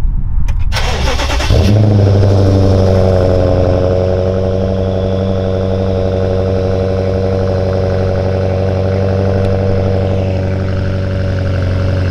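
Cold start of a BMW 550i GT's N63 twin-turbo V8 with a muffler-delete exhaust (resonator and catalytic converters kept). The starter cranks, the engine catches about a second in with a loud flare, then it settles into a steady cold idle.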